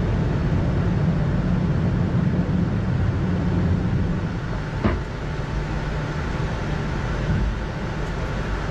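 Steady flight-deck noise of an Airbus A220-300 airliner in flight: airflow and engine noise with a low rumble, and a single sharp click about five seconds in.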